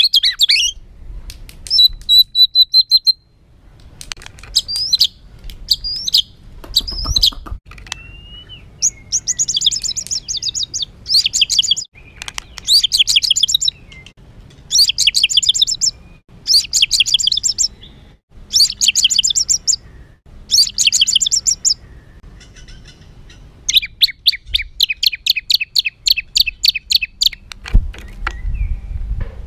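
White-rumped shama (murai batu) singing a harsh, agitated song. A few clear whistles come first, then a run of rapid buzzy trills, each about a second long and repeated every second and a half, and a longer rattling trill near the end.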